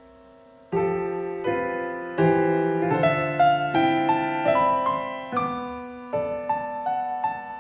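Solo piano background music: a held chord dies away, then a slow melody of single notes over chords starts about a second in.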